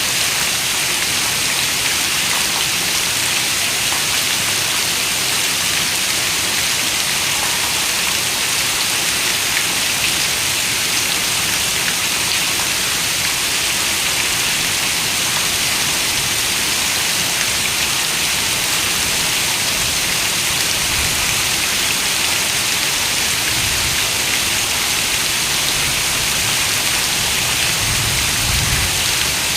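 Steady rain falling, an even dense hiss, with a soft low rumble swelling in the last few seconds.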